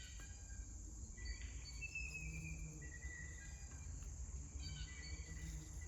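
Songbirds calling with many short, high whistled chirps, over a steady high-pitched insect drone.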